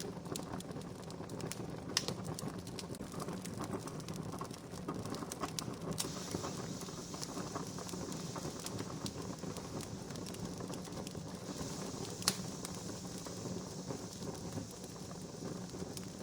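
Wood fire crackling steadily, with two sharp louder pops, about two seconds in and again about twelve seconds in.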